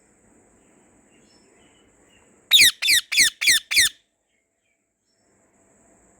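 Budgerigar chirping: five loud, quick calls in a row, each sliding down in pitch, over faint background chirping. The sound then drops out completely for a moment.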